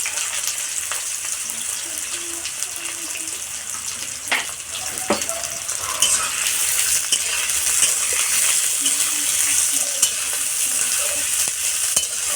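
Chopped onions sizzling steadily in hot mustard oil in a kadai, just after going in, with a couple of sharp knocks about four and five seconds in.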